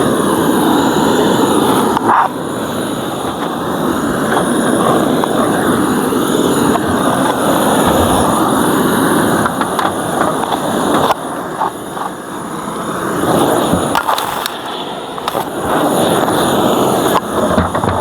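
Dense, loud buzzing of a mass of honeybees stirred up around an opened hive, close to the microphone, with a few brief knocks from handling the hive.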